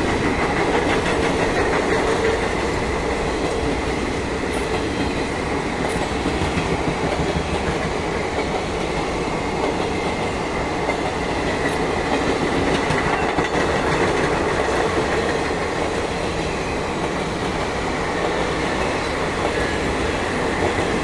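Silchar–Coimbatore superfast express train passing at speed: a loud, steady rolling noise of its coaches' wheels on the rails.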